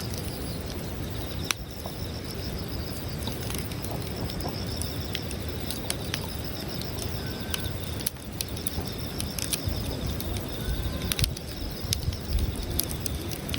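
Campfire burning with irregular sharp crackles and pops over a low rumble, under a steady high-pitched pulsing trill.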